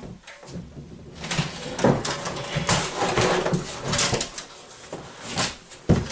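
Irregular knocks, clunks and scraping of hands-on work in a small closet, as parts are handled and moved, with a sharp knock near the end.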